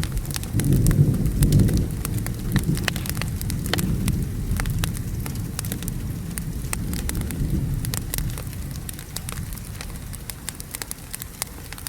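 Wood fire crackling with frequent sharp pops under steady rain, while a low roll of thunder swells about a second in and fades away over the next several seconds.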